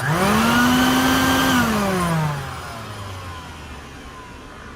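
Small shop vacuum's motor switched on, running briefly at a steady pitch, then switched off about one and a half seconds in and winding down with falling pitch. A thin squeal falls away with it as it slows, which the owner thinks is a dry bearing.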